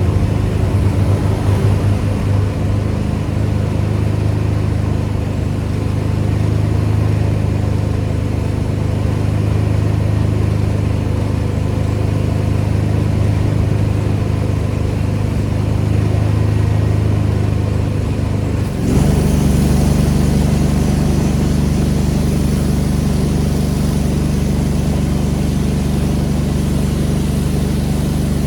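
Pressure washer's engine running steadily under a continuous drone. About 19 seconds in, the engine note changes abruptly and a high hiss joins in, as the spray gun starts spraying.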